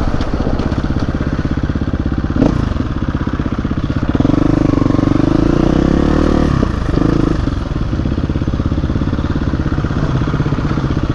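Dirt bike engine running under throttle. It gets louder for a couple of seconds near the middle, then eases off, with a single knock a couple of seconds in.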